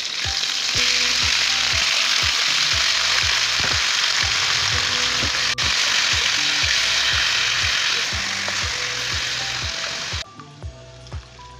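Raw chicken pieces frying in hot oil in a wok, a loud steady sizzle, stirred with a wooden spatula. The sizzle gets louder about a second in as the chicken goes into the pan and cuts off abruptly near the end.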